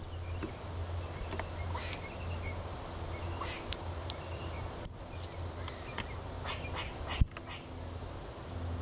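Backyard birds chirping in short, scattered notes over a low steady hum, with two sharp, louder clicks about five and seven seconds in.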